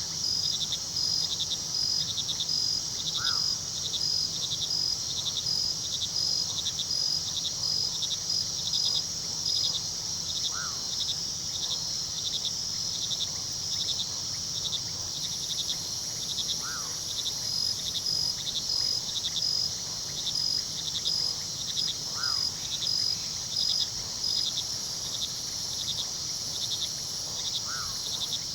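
Night chorus of crickets: a steady shrill trill with a regular pulsing chirp over a low, even rush of river water. A short call sounds five times, about every five to six seconds.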